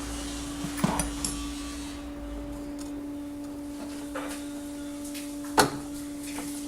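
Scattered metal clicks and knocks of hand tools on engine parts, with a few light knocks about a second in and a single sharper knock about five and a half seconds in, over a steady hum.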